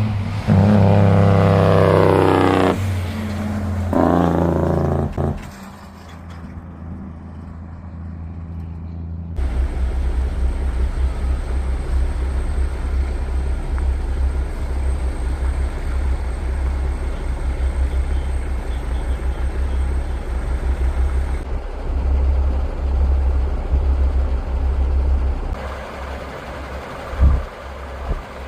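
Heavy truck engine accelerating, its pitch climbing twice with a gear change between, then a steady low rumble with gusty low-pitched noise like wind on the microphone.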